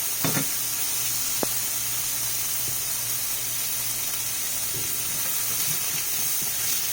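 Chicken frying in a pan, with a steady sizzle and a couple of utensil clinks against the pan near the start.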